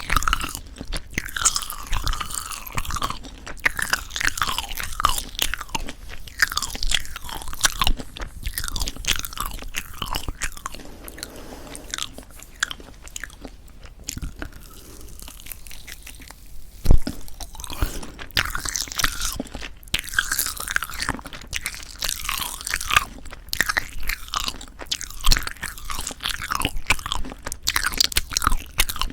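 Close-miked chewing of a tough, rubbery marshmallow pop: sticky, wet mouth sounds with many small irregular clicks, and one sharp knock a little past halfway. The marshmallow's chewiness is one the eater puts down to poor storage.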